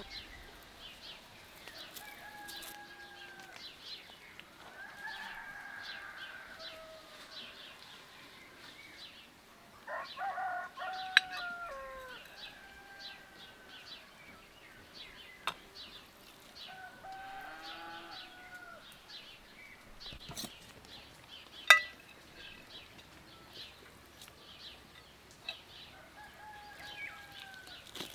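Rooster crowing several times, each crow a drawn-out call that falls in pitch at the end, with short high chirps throughout and a few sharp knocks, the loudest about three-quarters of the way through.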